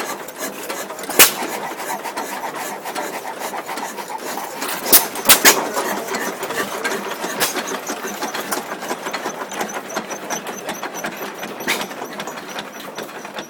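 Antique Waterloo-built stationary gasoline engine running with a steady mechanical clatter, broken by sharp exhaust bangs at irregular spacing: one about a second in, then three close together around five seconds in. This is the uneven firing of a hit-and-miss engine.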